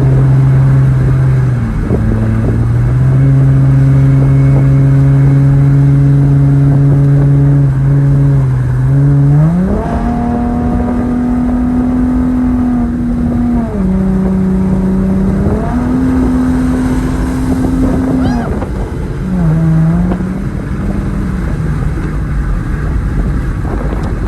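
A car engine running with a steady low drone, then revved up about nine seconds in and held there, easing down and back up a couple of times before settling at a moderate speed.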